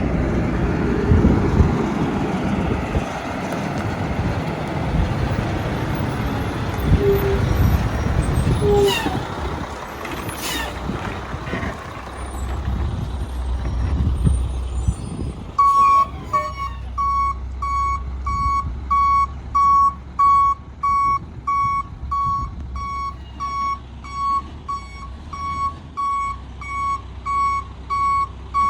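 Garbage truck engine running as the truck moves. About halfway through, its reversing beeper starts, sounding a single steady beep about once a second over the engine hum as the truck backs up.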